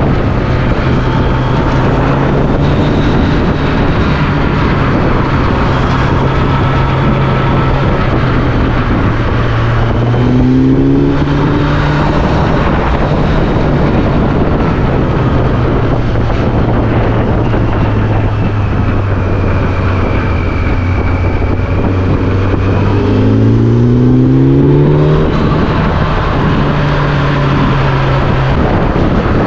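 A vehicle engine running on the move under a steady rush of wind and road noise. The engine note rises twice as it accelerates, about ten seconds in and again near the end, each time dropping back afterwards.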